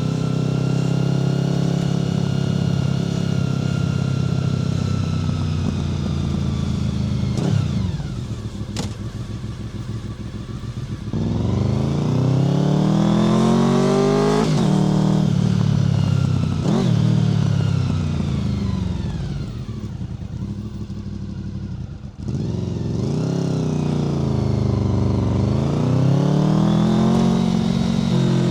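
Honda VFR800 FI's V4 engine through a Black Widow aftermarket exhaust, under way: it holds a steady note, eases off, then pulls up through the gears in several rising climbs, the pitch dropping at each shift. About two-thirds of the way in there is a brief sharp dip before it picks up again.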